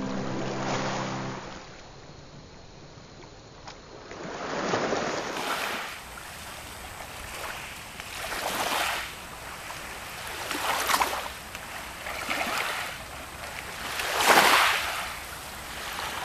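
Small lake waves washing in on the shore, each swell rising and falling away, roughly every two to four seconds, the loudest near the end.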